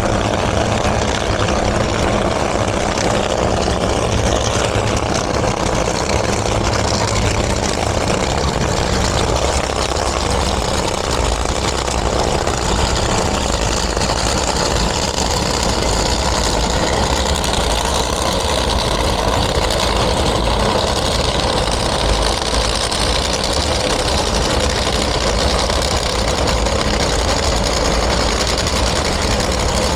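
Vehicle engines idling steadily with a deep rumble, no revving or launches.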